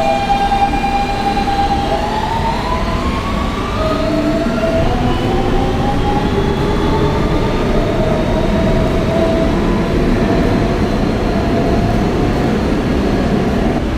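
Kawasaki R160B subway car with Siemens AC propulsion accelerating, with track rumble underneath. The motor whine holds one steady tone, then from about two seconds in several tones rise in pitch together as the train picks up speed.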